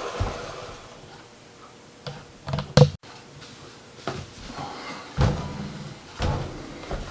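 Vacuum cleaner motor winding down after being switched off, its pitch falling and fading within the first second. Then a series of separate knocks and clunks from the machine or its parts being handled, the loudest near the middle.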